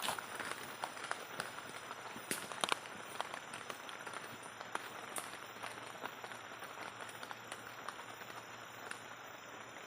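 Steady rain falling in forest, a continuous even hiss, with scattered light taps and snaps throughout.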